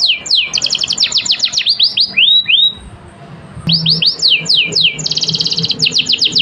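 Domestic canary singing a fast run of downward-sweeping whistled notes. The song breaks off briefly about three seconds in, then resumes with more sweeps and a fast rattling trill near the end.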